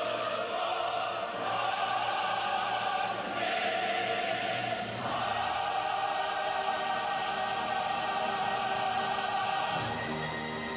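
Choir singing long held notes over musical accompaniment, the chord changing a few times.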